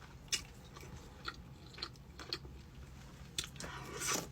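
A person chewing and biting into Cajun boneless chicken wings close to the microphone: short mouth clicks and crunches at uneven intervals, with a louder cluster near the end.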